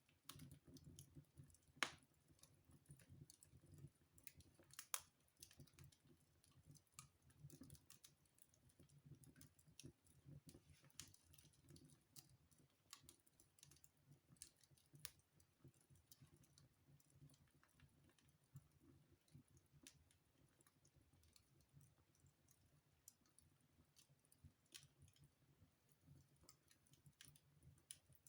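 Wood fire crackling in a fireplace: irregular small pops and snaps over a faint low rumble of the flames, with two louder pops about two and five seconds in.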